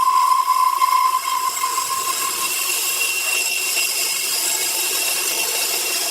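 Power saw running through a log, a steady noisy cut with a high whine that fades out about two and a half seconds in.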